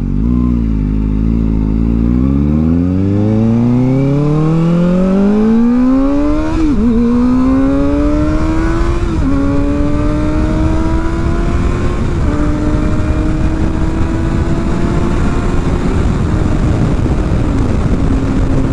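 Kawasaki ZX-4R inline-four with an aftermarket exhaust, accelerating hard through the gears. The pitch climbs steeply for several seconds, then dips briefly at each upshift and climbs more slowly in the higher gears, over a steady rush of wind.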